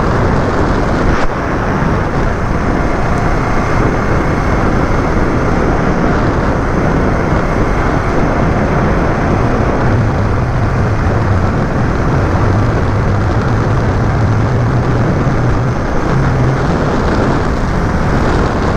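Steady road and engine noise from a moving vehicle. A low drone comes in about halfway through and drops away near the end.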